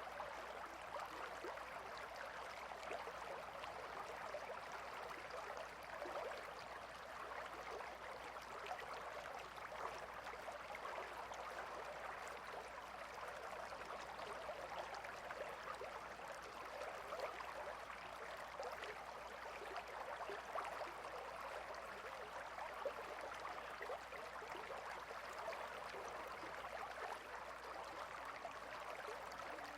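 Gentle river flowing: steady, even babbling of water.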